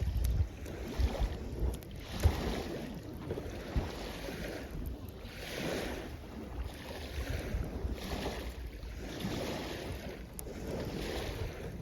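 Small waves washing up on the shore in repeated swells, with wind rumbling on the microphone.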